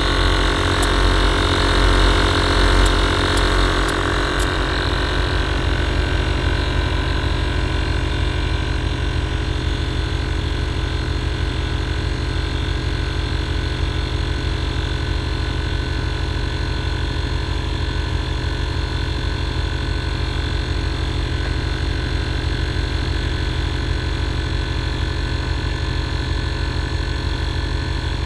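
Two Airlift 444C air-suspension compressors running together, a steady buzzing hum as they refill the air tank. The sound is a little louder for about the first four seconds, then settles to an even drone.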